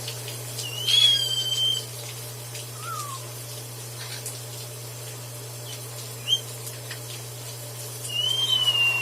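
A parrot whistling: a long gliding whistle about a second in, a short falling note and a brief chirp in between, and a second long whistle near the end, over a steady low hum.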